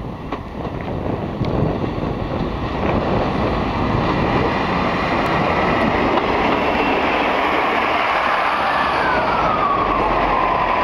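Train running across a wooden bridge, its rumble growing louder over the first few seconds, with a high whine that slides down in pitch near the end.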